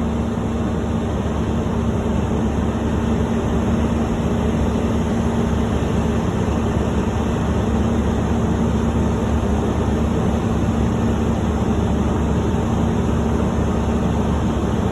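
Heavy truck diesel engine running steadily at constant speed, with a strong even hum and no change in pitch.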